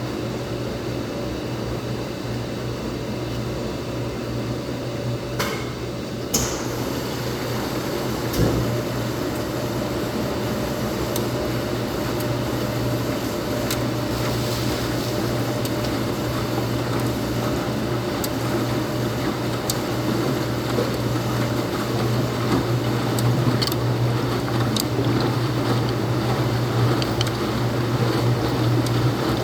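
Laundromat washing machine running with a steady low hum, growing slightly louder, with a few sharp clicks and a thump about eight seconds in.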